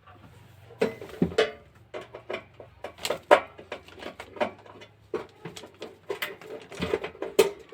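Screws being undone from a blower room heater's cover with a screwdriver: a string of irregular clicks and knocks of the tool and the heater being handled.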